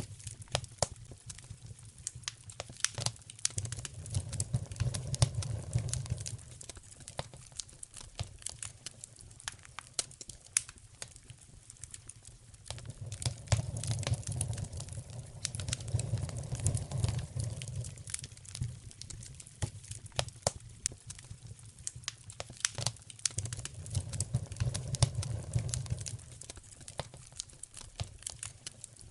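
Wood fire burning in a fireplace, crackling with many irregular sharp pops and snaps. A low rumble from the fire swells and fades three times.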